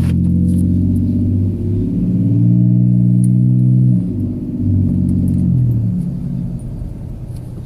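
Ford F-150 3.7-litre V6 with a Flowmaster Super 40 dual exhaust running under way, heard from inside the cab with the windows up. It gets louder about two seconds in, drops back near the middle, swells briefly once more, then eases off and fades.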